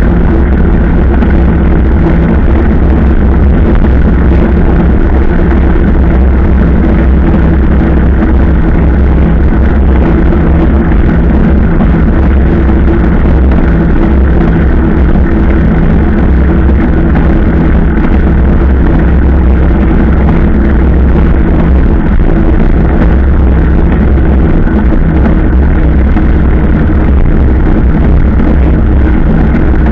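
Motorcycle engine running at a steady cruising speed, with a continuous low rumble of engine and wind noise that hardly changes in pitch or level.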